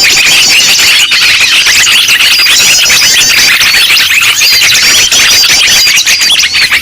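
A dense, noisy chorus of many small birds chirping and calling at once, with rapid repeated high-pitched notes overlapping throughout: a bird-lure recording of agitated birds, used to draw wild birds in.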